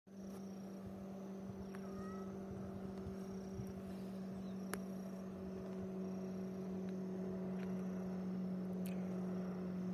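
Boat motor running steadily at one unchanging pitch over a low rumble, with a few faint ticks and a short chirp about two seconds in.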